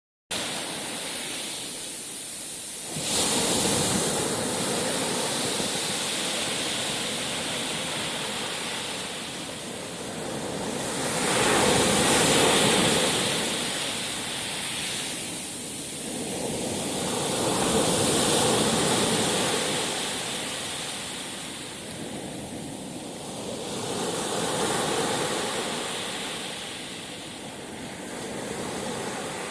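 Sea surf: waves breaking and washing ashore, the rush of water swelling and ebbing in about four slow surges.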